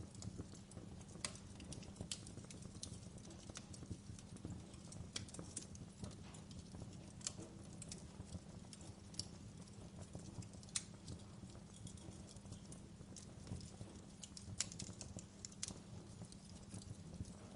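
Wood log fire in a fireplace crackling: irregular sharp pops and snaps over a low steady rumble.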